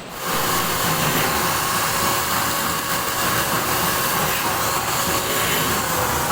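A machine running steadily: an even whirring noise with a faint steady hum, starting right at the outset.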